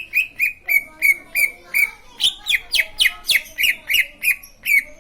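Cucak ijo (green leafbird) singing a fast run of repeated loud chirps, about three a second; the notes in the second half are sharper and each drops in pitch.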